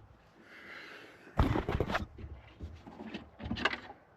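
Handling noise from the plastic headlight assembly and its bulb sockets: a short loud rustle about a second and a half in, then a few fainter clicks and scrapes near the end.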